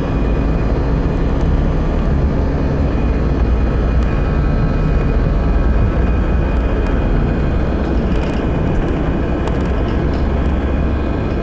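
Airbus A319 jet engines running at high power, heard inside the passenger cabin as a steady, loud rumble with a low hum.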